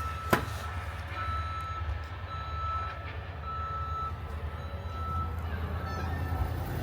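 Snowplow truck's backup alarm beeping as it reverses, a steady single-tone beep a little under once a second, over the low rumble of its engine. A single sharp knock sounds just after the start.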